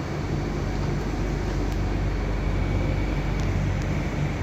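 Steady low hum and rumble inside a Mitsubishi Crystal Mover C810 LRT car waiting at a station, with a few faint ticks.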